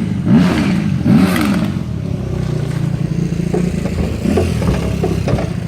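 A motor engine running, its revs rising and falling a few times in the first second and a half, then holding fairly steady.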